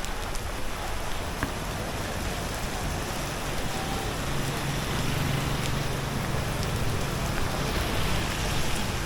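Steady rain falling on the street, with a low engine hum from a passing vehicle in the middle.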